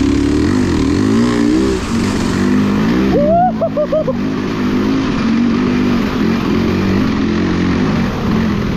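A motor vehicle engine running and revving, its pitch rising and falling, with a quick run of rev blips about three seconds in.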